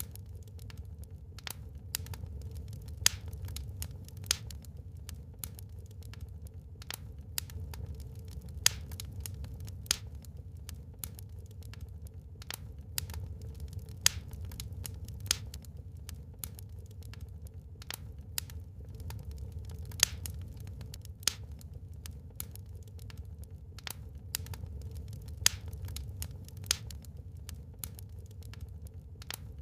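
Wood fire burning in a fireplace: a steady low rumble with frequent irregular crackles and a handful of louder sharp pops.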